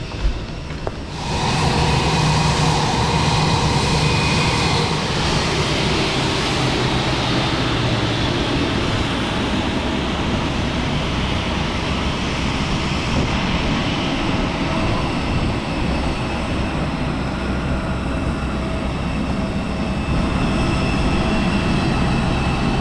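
Jet airliner noise: a loud steady rush that comes up suddenly about a second in, with a faint whine slowly falling in pitch.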